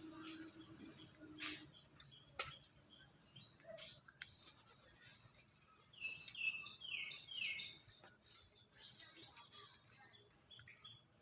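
Small birds chirping: a quick run of about six short, falling chirps, with a few soft clicks before it over faint background noise.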